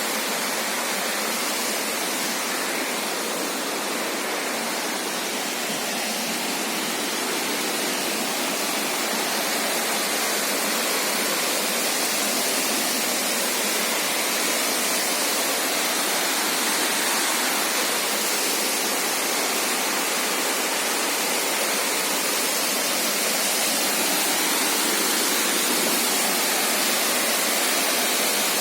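Waterfall and river running: a steady, even rush of falling water.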